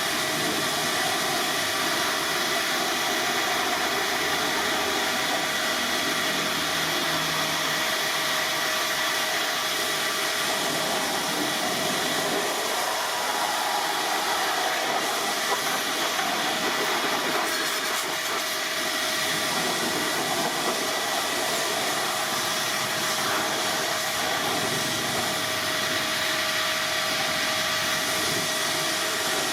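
A steady machine hiss with a constant high whine, like a motor-driven blower running without a break.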